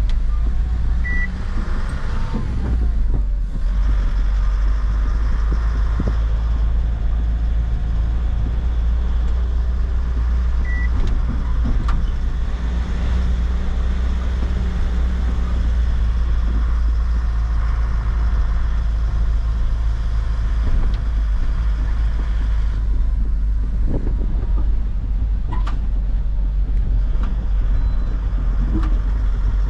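A truck being driven, its engine and road noise making a steady low rumble. Two short high beeps sound, one about a second in and another about eleven seconds in.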